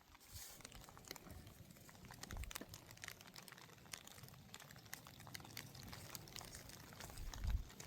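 Faint, irregular clicks and taps, with a low thump about two and a half seconds in and another near the end.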